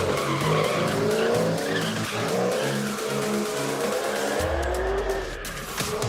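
Supercharged Ultra4 race car doing a burnout: the engine revs with gliding pitch and the tires squeal and skid, over background music.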